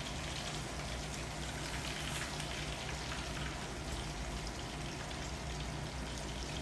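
Pork tenderloin pieces deep-frying in hot oil on their first fry, giving a steady sizzle.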